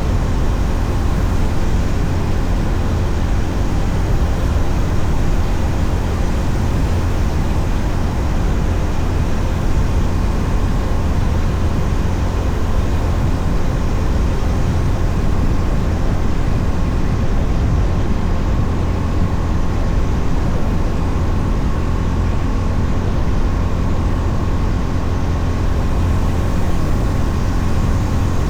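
Honda CB350RS air-cooled single-cylinder motorcycle running steadily at cruising speed, its engine drone mixed with a steady rush of wind noise over the camera microphone.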